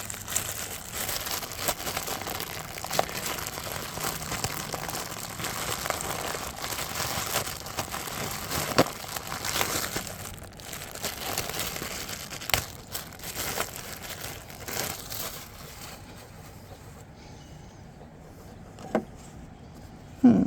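Close-up rustling and crinkling with scattered sharp clicks and light knocks, the handling noise of hands working on a lawnmower with the camera pressed against the body. It quietens about three-quarters of the way through, with a single knock near the end.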